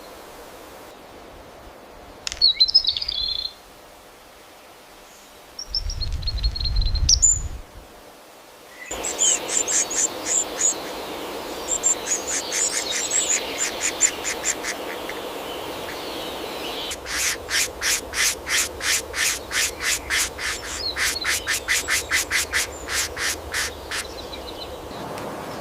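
Birds calling over a rainforest background: a couple of separate high chirps, the second over a low rumble, then long runs of quick, evenly repeated high notes, a few a second.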